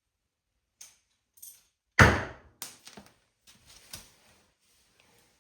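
Hand tools and loose parts knocking on metal while bolts are being taken off a tractor carburetor and exhaust manifold: a sharp knock about two seconds in, then several lighter clicks and clanks.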